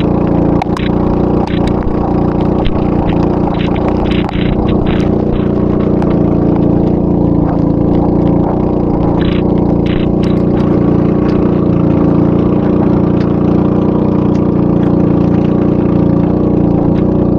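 Boat engine running steadily at speed, a loud even drone with a constant pitch, with a few short clicks in the first few seconds and around ten seconds in.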